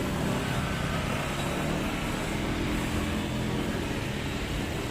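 Heavy truck's diesel engine running steadily with a low rumble.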